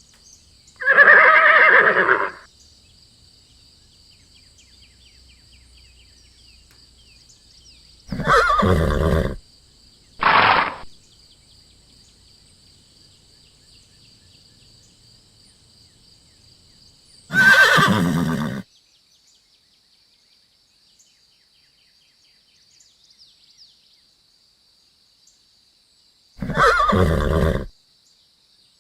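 Horse neighing: five separate whinnies, each about a second long, with one much shorter call just after the second, and long quiet pauses between them.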